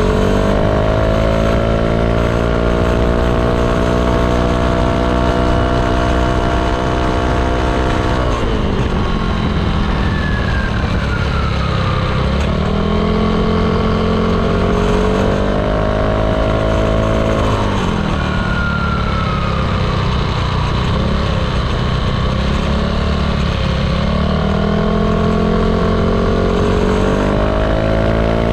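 Yamaha Aerox 155 scooter's single-cylinder engine through an ROB1 aftermarket exhaust, heard close at the muffler as the bike is ridden back and forth. The note climbs in pitch under throttle and holds, drops off sharply when the throttle closes about eight seconds in, then climbs again; this rise and fall comes round three times.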